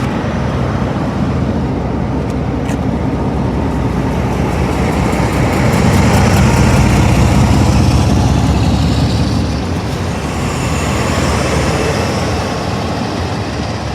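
A train passing close by: a loud rumble that builds to its peak about halfway through, then eases off.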